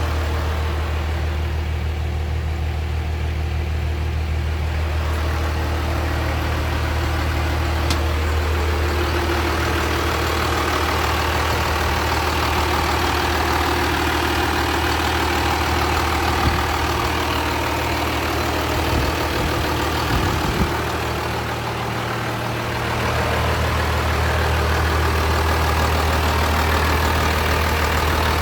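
Cummins diesel engine in a 1994 Chevrolet pickup idling steadily, with a brief dip in its low hum about three quarters of the way through.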